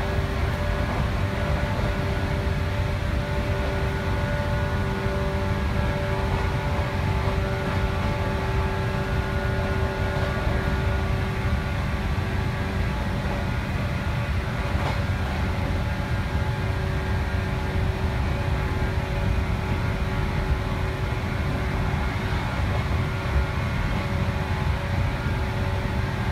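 Cabin running noise of a 415-series electric multiple unit travelling at a steady speed: a continuous low rumble from the wheels and running gear, with a steady hum of several fixed tones over it.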